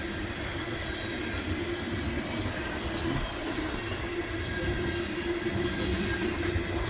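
Loaded coal train's hopper cars rolling past, a steady rumble of wheels on rail with a faint steady wheel squeal.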